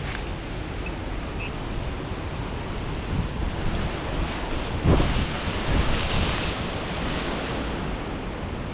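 Heavy wind buffeting the microphone in a steady rumble, with louder gusts about halfway through.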